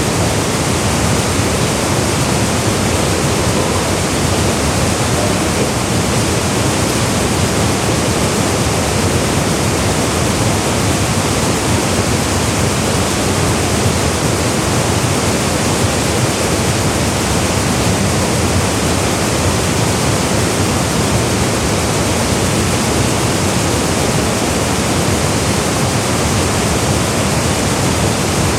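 Waterfall pouring into a mountain gorge pool: a loud, steady, unbroken rush of falling water.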